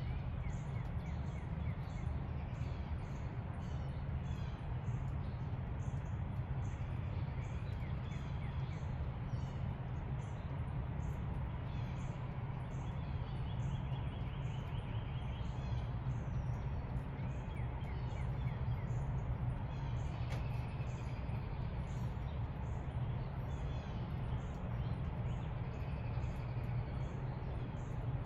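Wild songbirds chirping and trilling in repeated short calls over a steady low background rumble.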